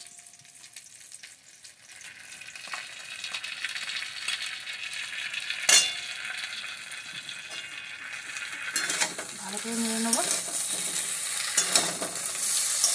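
Vegetables frying in a metal wok, the sizzle growing louder as poppy-seed and mustard paste is added and stirred in with a metal spatula. A sharp clack of metal on the wok comes about six seconds in, and the scraping of the spatula gets louder near the end.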